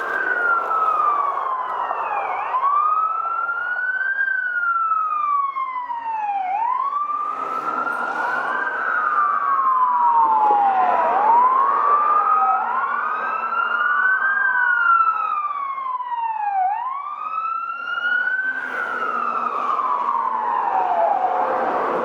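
Fire truck sirens wailing: each tone rises quickly and falls slowly, repeating every few seconds. At least two sirens sound out of step with each other, over passing traffic.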